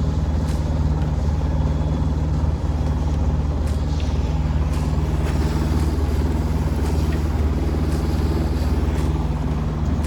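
Boat motor running steadily at a constant speed, a low, even engine hum.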